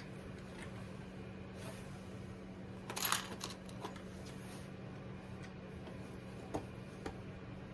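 Small metal hardware being handled while fitting hinges to a wooden birdhouse: a short rattle and clink about three seconds in, then a few light clicks, over a steady low hum.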